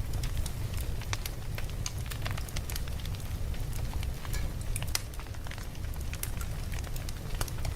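Campfire burning, with irregular crackles and pops from the wood over a steady low rumble.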